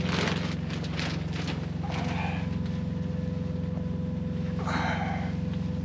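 Semi truck's diesel engine idling, a steady low pulsing hum heard inside the sleeper cab, with three brief rustling noises over it.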